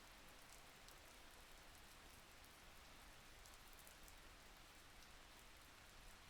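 Faint, steady rain: a soft even hiss with many small scattered drop ticks.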